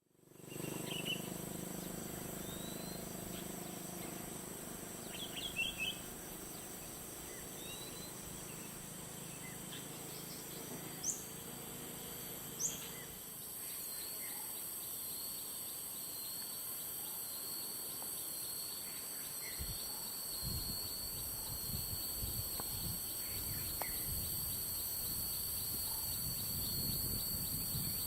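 Outdoor countryside ambience: a steady high insect drone with scattered bird chirps in the first few seconds and two quick rising calls near the middle. A low hum stops about halfway through, and irregular low rumbling comes in during the second half.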